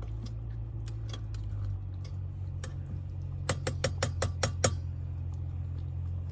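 A utensil clinking against a rice-cooker pot while curry rice is stirred, ending in a quick run of about eight sharp taps a little past halfway, like a spoon knocked clean on the rim. A steady low hum sits underneath.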